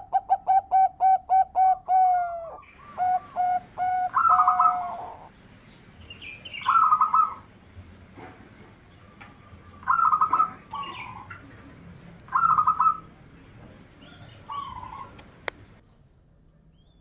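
Zebra dove (perkutut) cooing: a quick run of about ten short coo notes in the first two seconds, more coos after that, then short trilled calls every couple of seconds. A sharp click comes near the end.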